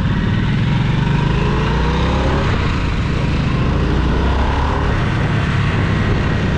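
Motorcycle engine running while riding, with the pitch rising briefly about two to three seconds in as it accelerates.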